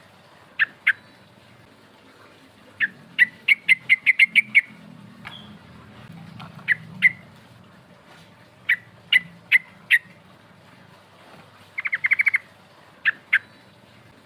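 Yellow-vented bulbul (trucukan) singing: short sharp notes in pairs and small groups, a quick run of about eight notes a few seconds in, and a fast rolling trill near the end.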